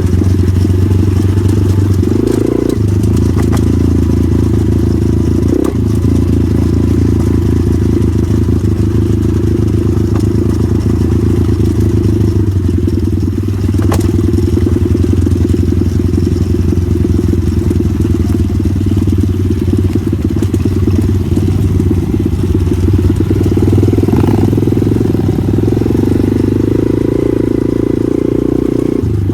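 Pitbike's small single-cylinder engine running under load while riding, its note changing with the throttle: the revs rise about two seconds in and again near the end.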